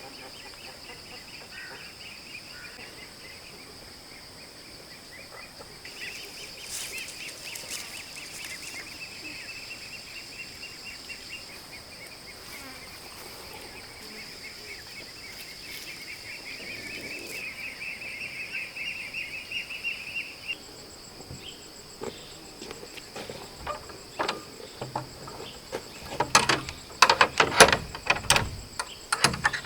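Insects droning steadily at a high pitch, with a fast chirping trill from about six to twenty seconds in. In the last several seconds there is a run of sharp knocks and clatter.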